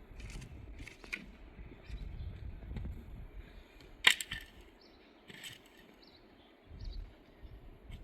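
A single sharp click about four seconds in, over an uneven low rumble and a few brief scratchy rustles.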